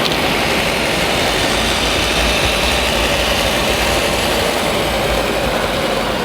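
A steady, engine-like running noise with a broad hiss, unchanging throughout.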